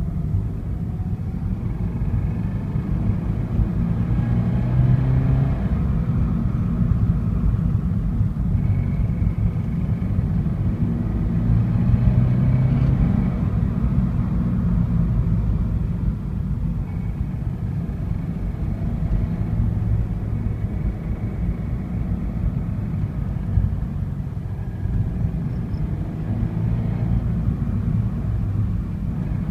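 An engine running with a steady low rumble, its pitch drifting slightly up and down.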